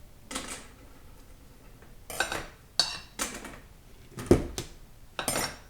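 Steel clutch plates from a 4L60E transmission clutch pack clinking and clattering against each other and the metal bench as they are handled, in about six short bursts, the loudest a heavier clunk a little past four seconds in.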